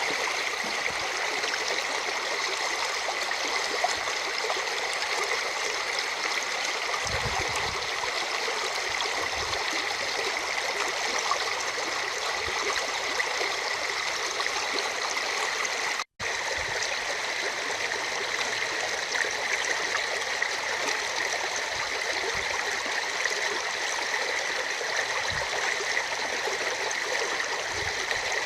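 A rain-swollen stream running steadily over its bed. The sound cuts out for an instant about two-thirds of the way through.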